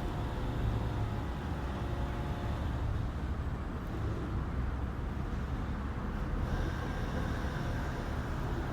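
Steady low outdoor rumble, like distant road traffic, with a faint hum of several steady tones over the first couple of seconds.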